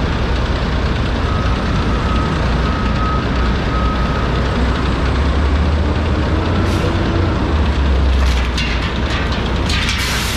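Heavy garbage truck's diesel engine running with a steady low hum, with a thin high whine for a few seconds after the start and a short burst of air hiss near the end.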